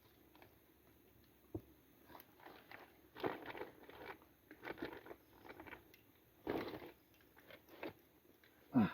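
Irregular crunching and rustling handling noises in short clusters, with a brief sound sliding down in pitch near the end.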